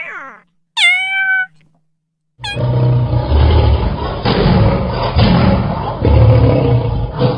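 Domestic cat meowing: the end of one falling meow, then a second short meow about a second in. About two and a half seconds in, the sound cuts abruptly to a loud, continuous low noise.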